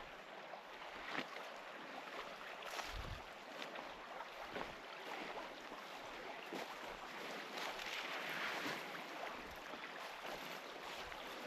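Faint, steady rush of a small river flowing, with scattered light clicks and a soft low thump about three seconds in.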